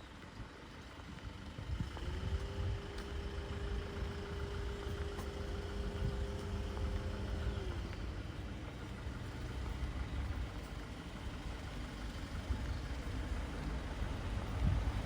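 Road vehicle engine running nearby with a steady low rumble. A steady hum comes in about two seconds in and stops a little before eight seconds.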